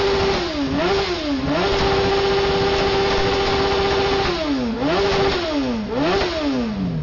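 Honda CBR900RR inline-four engine revved hard for a sound-level reading. It gives a few quick blips, is held high and steady for about two and a half seconds, blips again, and drops back toward idle near the end. It measured 128.9 decibels.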